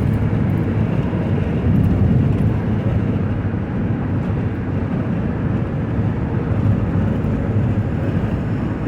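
Steady road noise of a car driving on a wet freeway, heard from inside the cabin: a low drone of engine and tyres with a hiss of tyres on wet pavement.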